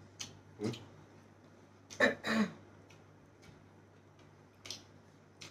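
Close-miked eating sounds: scattered wet mouth clicks and smacks while chewing a mouthful of food. About two seconds in there is a short, louder throat sound, over a low steady background hum.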